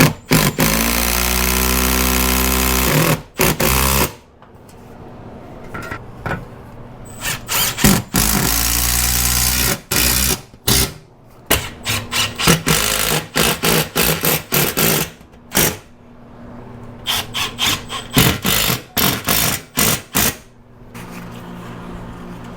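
Cordless power drill running in two sustained runs of a few seconds each, then in many short stop-start bursts of the trigger, driving screws to fix the mini-split's wall mounting plate.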